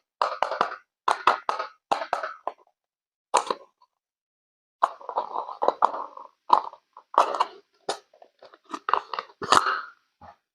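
Water splashing and plopping in a small basin, in a string of short bursts with silent gaps between them.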